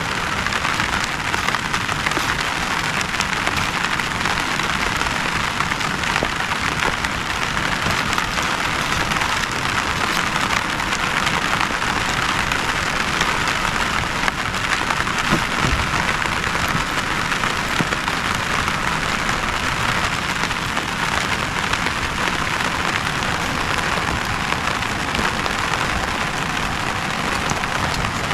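Steady heavy rain falling, with many individual drops ticking sharply close by.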